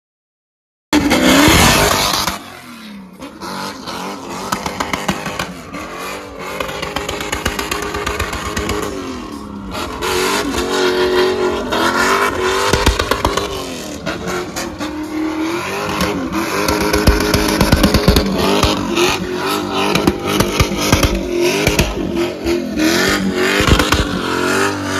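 V8 car engines revving hard, the exhaust note climbing and falling again and again, with sharp crackles through it. It starts abruptly about a second in.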